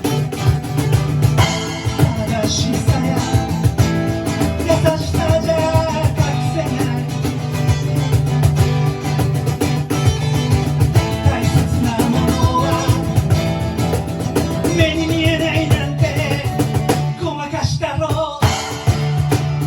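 Live rock band playing, with guitar, drums and singing. The sound thins out briefly near the end, then the full band comes back in.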